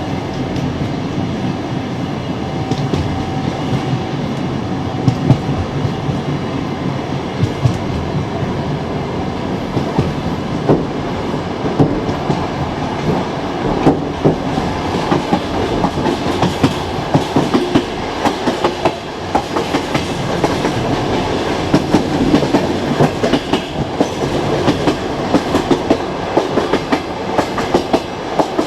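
Passenger train running on the track, with a steady rumble and its wheels clacking over rail joints. The clacks come thicker and louder from about ten seconds in.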